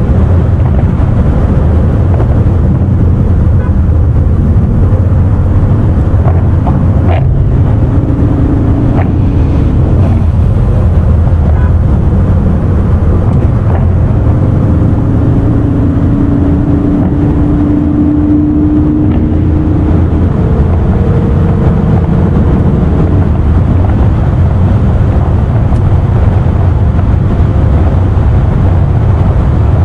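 Car driving at speed: a steady low rumble of engine and road noise, with a faint humming tone that rises in the middle and a couple of brief clicks early on.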